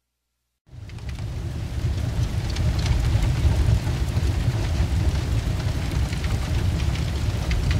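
A large fire roaring, with sharp crackles and pops throughout, cutting in suddenly out of silence less than a second in.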